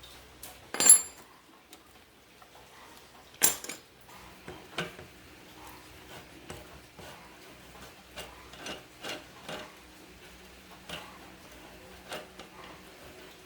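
Hard objects clinking and knocking: two loud ringing clanks, about a second and three and a half seconds in, then a run of lighter knocks, roughly one or two a second.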